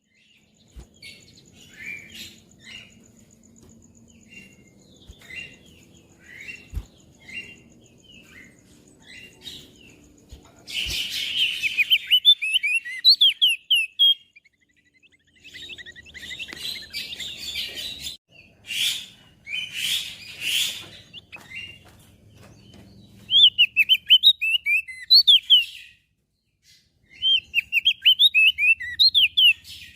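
Crested white-eye singing: quick high chirps and runs of rapid twittering, in loud bursts with quieter scattered notes between, including scratchy, harsher passages.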